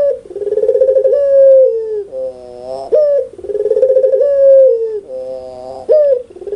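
Puter pelung dove (domestic ringneck dove) calling loudly and repeatedly, three calls about three seconds apart. Each call is a sharp rising note, a rolling trill, then a long held coo that steps down in pitch.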